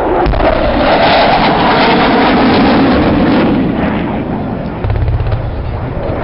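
Jet aircraft flying past, a loud rushing, crackling engine noise that is strongest for the first few seconds and eases off after about four seconds, leaving a low rumble.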